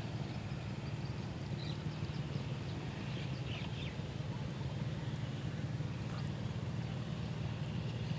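A steady low hum, with a few faint short high chirps scattered through it, a couple of them close together about three and a half seconds in.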